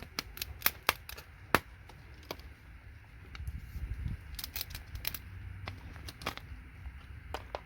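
Irregular light clicks and clinks of hand tools and pieces of scrap circuit board being handled on a workbench: a few quick ones in the first second and a half, another cluster about halfway through, and a couple more near the end.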